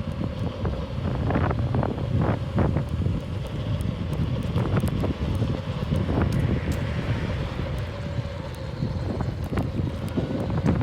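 Wind buffeting the microphone of a camera on a moving electric unicycle, a heavy low rumble. A faint steady hum and scattered small knocks and rattles run through it.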